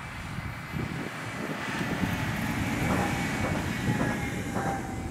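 A Stadler FLIRT electric multiple unit (class 1427) passing at a distance. The rolling rumble of its wheels on the track grows to a peak about three to four seconds in, then starts to fade, with a faint high steady tone over it.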